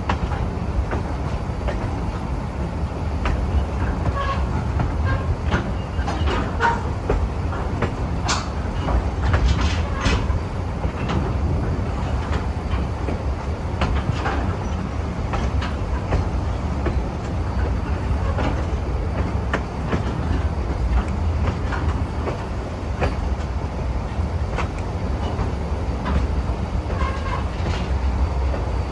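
A railroad passenger car rolling along the track, with a steady low rumble and scattered clicks and knocks from the wheels and car body.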